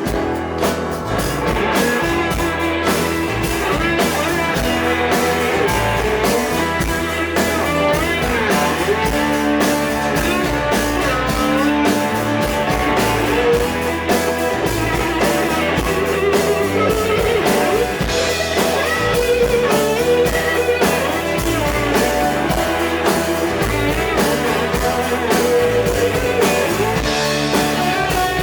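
Live blues-rock band playing an instrumental break: a lead guitar plays a solo line with bent, gliding notes over a drum kit and bass.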